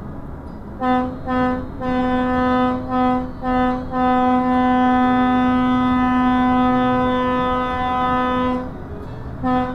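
A vehicle horn on one steady note: a string of short honks, then one long blast held for about five seconds, then short honks again near the end.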